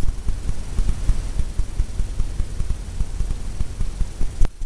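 Bristle brush scrubbing paint onto a stretched canvas in circular strokes, a quick irregular run of dull thumps from the canvas, ending with a sharp tap near the end as it quiets.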